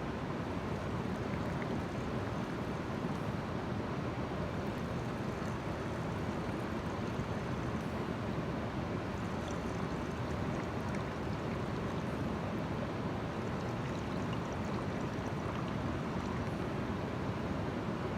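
Steady rush of a waterfall and mountain stream, an even, unbroken water noise.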